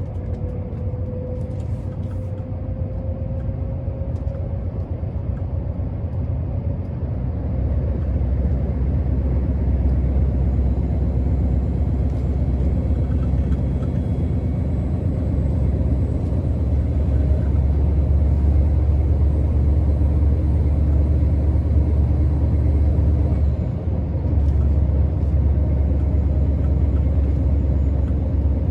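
Scania R650's 16-litre V8 diesel running under way, a steady deep rumble that grows louder about a quarter of the way in and again midway, with a momentary dip near the end.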